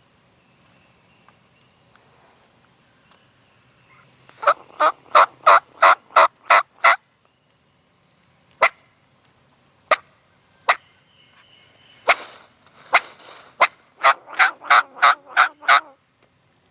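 Wild turkey yelping: two runs of about eight evenly spaced yelps, roughly three a second, with a few single cluck-like notes and a rough, noisier call between them.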